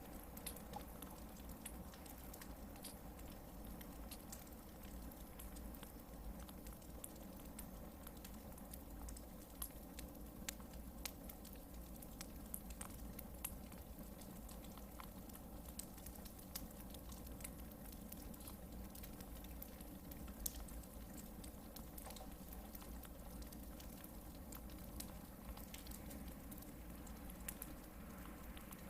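Hardwood campfire burning, crackling steadily with many small pops; one sharper pop about twenty seconds in.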